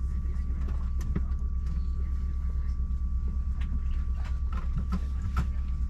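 Steady low hum inside the cabin of an Embraer 190-E2 airliner on the ground, with a thin steady high tone over it and a few faint light clicks.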